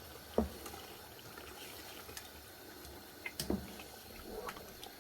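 Wet, liquid sounds of food in a cooking pot, as yogurt and chicken are worked in, with two sharp knocks, one just under half a second in and one about three and a half seconds in.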